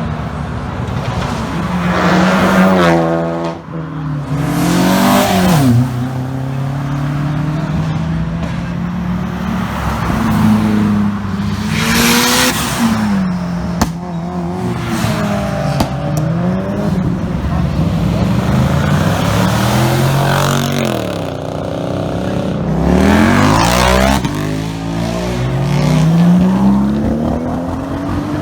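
Tuner cars accelerating away one after another, engines revving hard, each note climbing in pitch and then dropping as the car pulls off and gears change, several times over.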